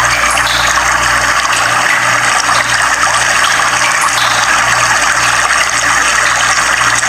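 Steady rush of flowing water that cuts off abruptly at the very end.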